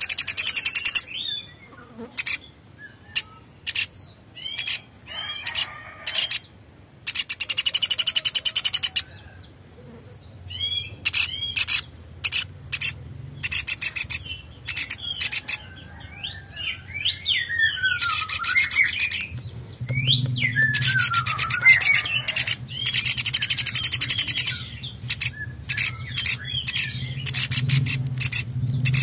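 Birds calling: bursts of rapid high trills and short chirps, with a couple of swooping calls that dip and rise near the middle. A faint low hum runs beneath in the second half.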